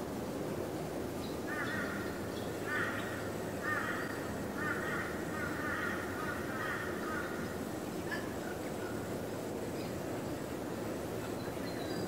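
A bird calling in harsh, rapid notes, in several bursts over about five seconds, over a steady low background noise.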